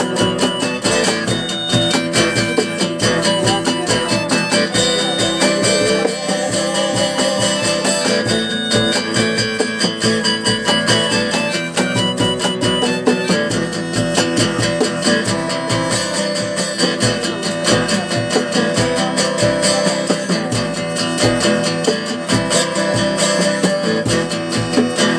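Live rock band playing an instrumental passage of the song, led by steadily strummed guitar in an even rhythm.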